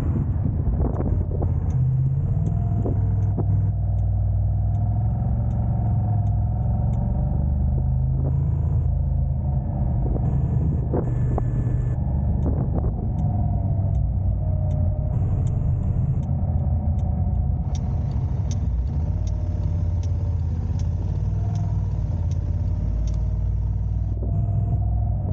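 A car driving: a steady low rumble of engine and road noise, with a faint wavering tone riding over it.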